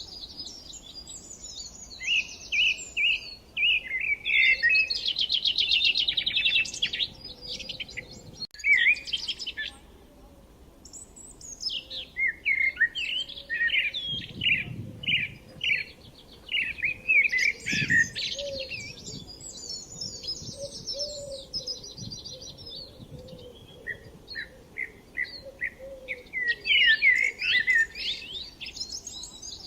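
Songbird singing in phrases of quick, high chirps and rapid trills, separated by short pauses, with a brief dropout about a third of the way through.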